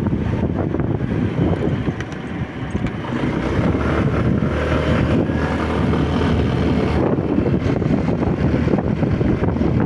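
Wind rushing over the microphone of a moving motorcycle, with its engine running underneath. The noise dips briefly about two seconds in.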